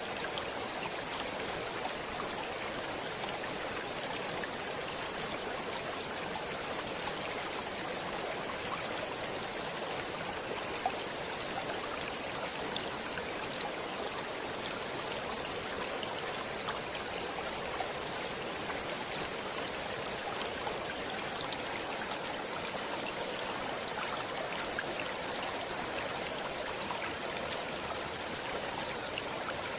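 Stream water flowing: a steady, even rush with small splashing ticks scattered through it, one a little louder about eleven seconds in.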